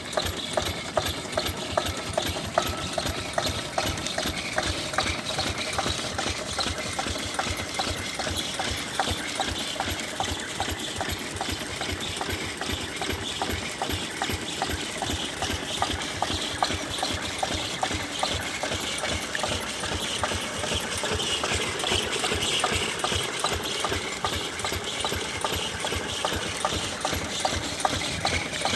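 A 10 hp engine driving a water pump, running steadily with an even, rapid knocking beat.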